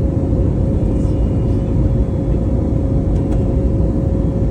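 Steady cabin noise inside an Airbus A321neo in flight: a constant low rumble of engines and airflow with a steady hum running through it.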